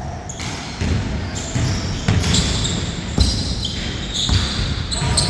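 Basketball bouncing on a hard court during a game, irregular thuds mixed with short high squeaks of sneakers.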